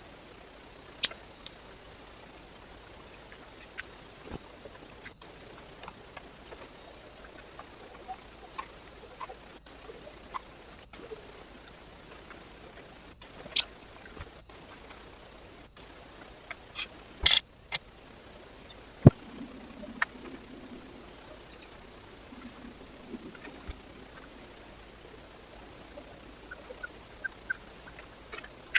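Birds at a feeder: scattered sharp taps and clicks from pecking and landing, with a few faint short chirps near the end, over the steady hiss of a trail camera's microphone.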